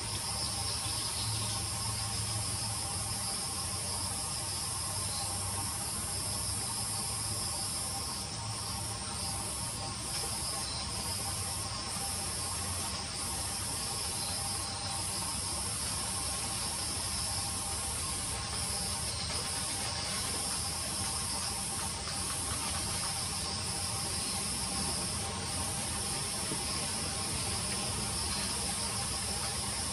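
Steady, high-pitched insect chorus with a constant hiss underneath, unbroken throughout.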